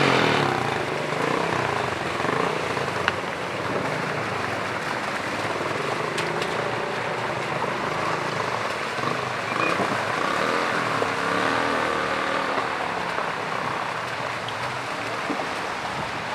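Floodwater rushing past in a steady, continuous wash of noise.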